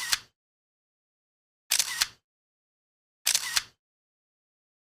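Camera shutter clicking three times, about a second and a half apart, each a quick double click with dead silence between.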